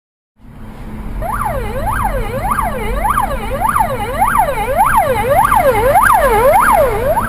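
Emergency vehicle siren in a fast yelp, its pitch rising and falling about twice a second, over a low engine and road rumble; it cuts in about half a second in.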